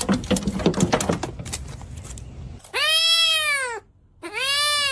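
Domestic cat meowing twice, two long meows that each rise and then fall in pitch, about a second apart. Before them, a run of clicks and knocks.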